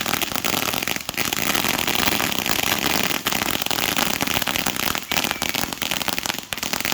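Fireworks crackling: a dense, unbroken run of rapid pops, with a few louder bangs standing out among them.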